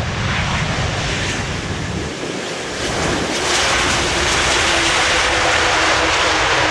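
Airbus A330-243 jet airliner's Rolls-Royce Trent 700 engines, a steady rushing noise that grows louder about three seconds in, with a faint steady whine and wind on the microphone.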